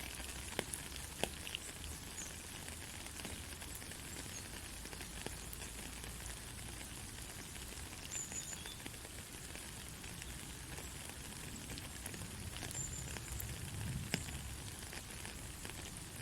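Soft, steady rain, with scattered single drops ticking sharply.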